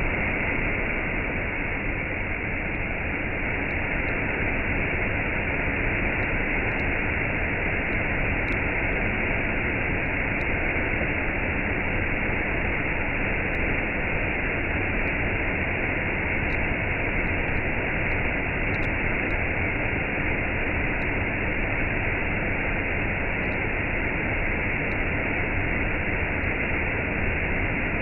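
Waterfall and cascade, falling water rushing in a steady, unbroken stream of sound.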